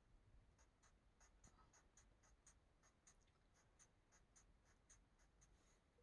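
Faint, quick strokes of a marker on a colouring-book page, repeating at about four a second.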